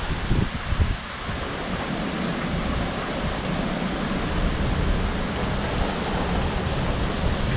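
Severe thunderstorm wind gusting with rain: a steady, loud rushing noise, with wind buffeting the microphone during about the first second.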